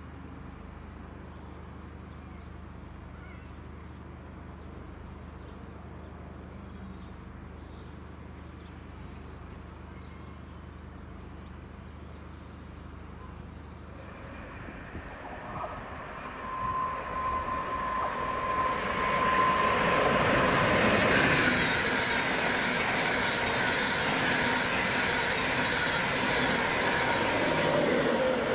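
Faint, regular short chirps over a low hum, then a train approaching from about fourteen seconds in, with a thin high ringing tone as it nears, and running past loudly, wheels on rail, through the last third.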